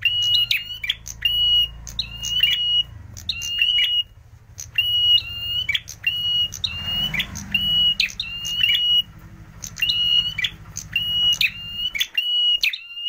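Prenjak merah calling in a cage: a loud, high, piping phrase repeated about once a second, each a held note with sharp chip notes around it, with two short breaks. A low hum runs underneath and cuts off near the end.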